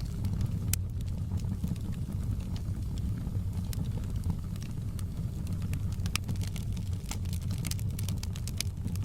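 Wood fire crackling, with frequent sharp irregular pops and snaps over a steady low rumble; the pops come thicker toward the end.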